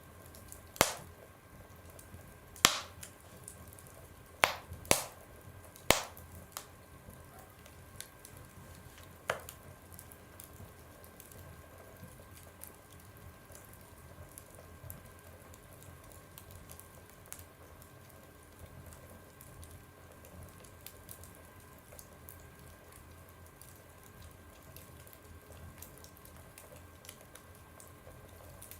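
Fire burning in a stove, crackling: half a dozen sharp, loud pops in the first ten seconds, then only faint small crackles.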